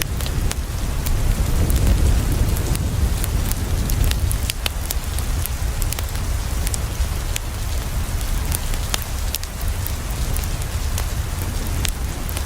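Steady rain falling against a window, mixed with a crackling wood fire. A continuous hiss and a low rumble run under many scattered sharp clicks.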